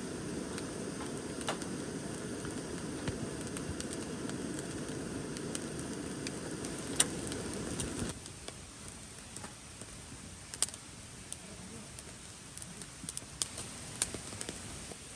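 Firewood fire crackling, with scattered sharp pops. A steady low rush underneath stops abruptly about eight seconds in.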